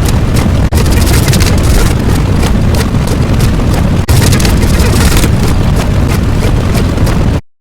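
A loud, noisy rumble with a heavy low end, without any clear pitch, cutting out abruptly just before the end.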